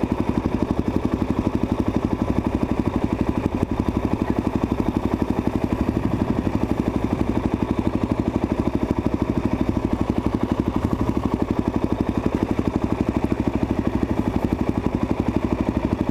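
Suzuki DR-Z400SM's single-cylinder four-stroke engine running steadily at low revs, an even, rapid pulsing beat that holds the same pace throughout.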